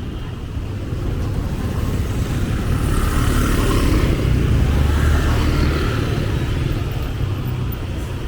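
Street traffic: a motor vehicle passes close by, loudest about four to five seconds in, over a steady low rumble.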